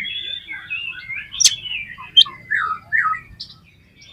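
Oriental magpie-robin (kacer) singing a rapid, varied song of whistles and chirps, with sharp, loud high notes about one and a half and two seconds in; the song breaks off near the end.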